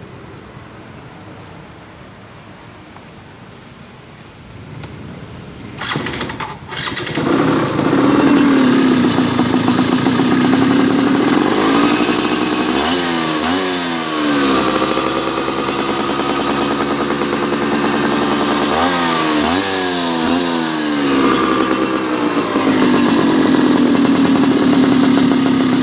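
Yamaha Sigma motorcycle with a racing exhaust being started about six seconds in, then idling steadily. It is revved in quick blips twice, around halfway through and again a few seconds later, dropping back to idle each time.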